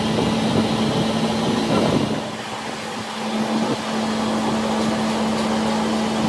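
A workshop machine running steadily with a constant hum, dipping in loudness for about a second a little past two seconds in.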